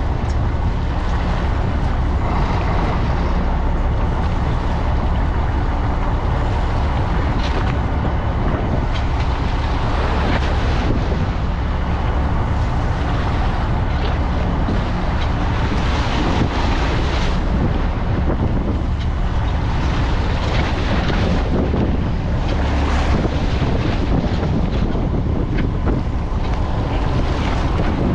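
Boat engine running steadily with a low hum, with wind buffeting the microphone and sea water rushing past the hull in swells.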